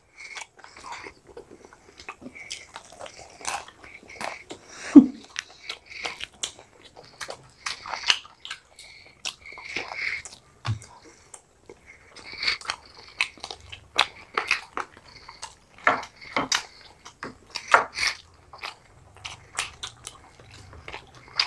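Close-up eating sounds: two people biting into and chewing fried chicken lollipops, with wet smacking and crunchy bites at an uneven pace. One louder thump about five seconds in.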